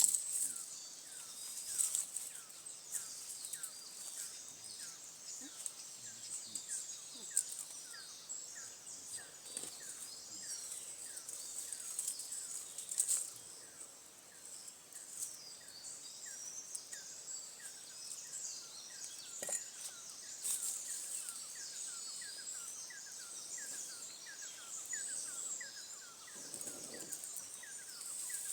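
Forest ambience: a steady high insect drone with birds calling, one bird repeating a short falling note about twice a second, and a few scattered clicks.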